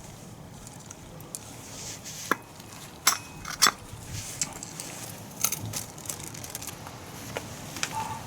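Scattered metallic clicks and clinks of hand tools and metal parts being handled during scooter rear-wheel bearing work, with two louder knocks about three seconds in.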